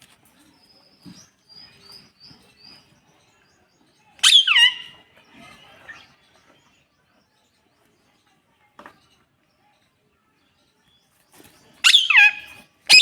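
Parrot giving two loud screeching calls, about four seconds in and again near the end, each sliding sharply down in pitch. A few faint short chirps come before the first call.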